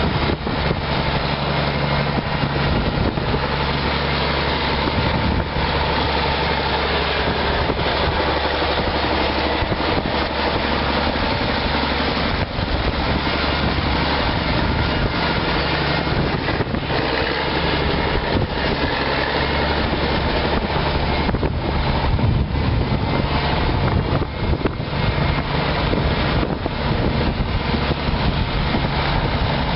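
Tractor engine running steadily under load, with an even, unchanging pitch.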